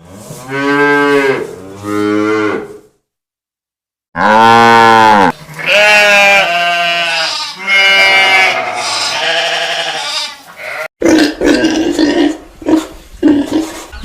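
Animal calls: several loud, pitched calls with a wavering pitch and a short pause about three seconds in, then rougher, irregular noisy calls from about eleven seconds in.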